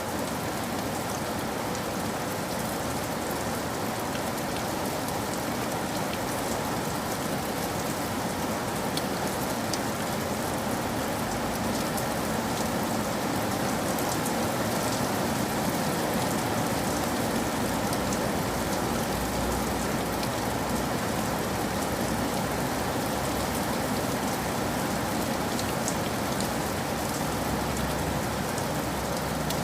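Steady rainfall, a continuous even hiss with scattered individual drops ticking against a surface.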